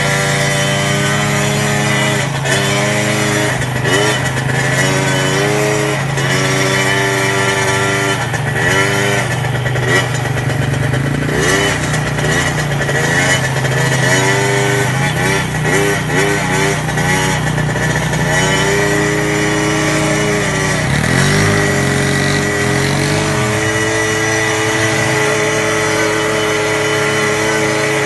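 Quad bike engine revving up and falling back over and over as it is ridden hard around a track, with a steady lower engine drone underneath. Over the last several seconds the engine holds an even pitch.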